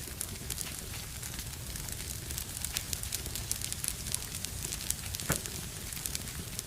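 Wood fire in a fireplace burning with a steady low rumble and hiss, crackling with frequent irregular pops, one of them louder about five seconds in.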